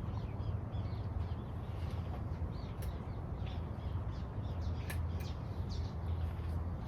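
Birds chirping and calling in short scattered notes over a steady low background rumble.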